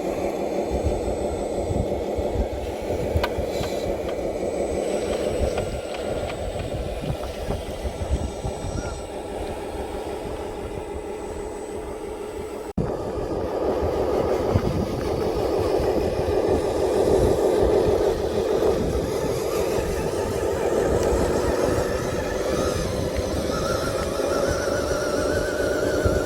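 Radio-controlled model dump trucks running, with a steady mechanical whine from their motors and gearing over a low rumble. The sound cuts off for an instant about halfway through and then carries on.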